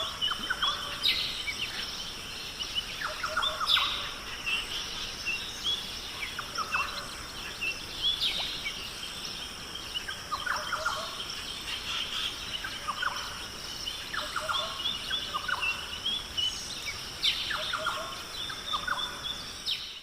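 Birds calling and chirping in a repeated chorus of short, quick calls every second or two, over a steady high-pitched background tone. The recording cuts off abruptly at the end.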